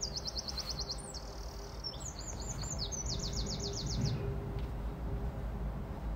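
A songbird singing in fast trills of short, high repeated notes, about eight or nine a second, in three phrases that stop about four seconds in, over steady low background noise.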